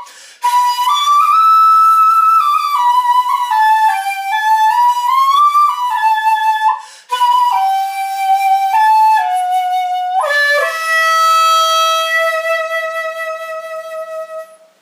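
Shakuhachi made of ostrich bone playing a slow melody, with notes bent and sliding in pitch and two short pauses for breath. It ends on a long held note that fades away.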